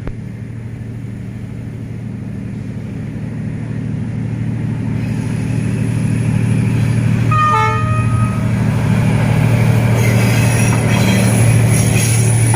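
D19E diesel-electric locomotive working under load as it pulls a passenger train uphill, its engine drone growing steadily louder as it approaches. A short horn toot of about a second comes midway, followed by rising wheel and rail noise.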